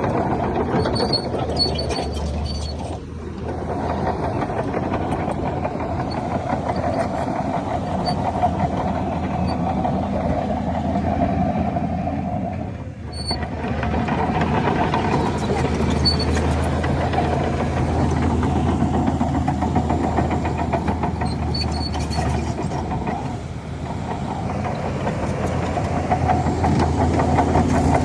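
Diesel engines of heavy earthmoving machinery running steadily, the sound dipping briefly three times.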